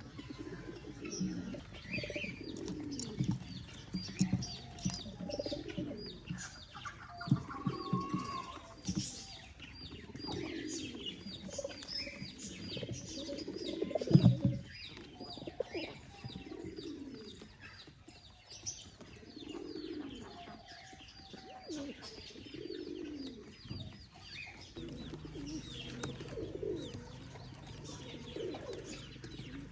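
Pigeons cooing over and over, with small birds chirping higher above them. A few sharp knocks, the loudest about halfway through.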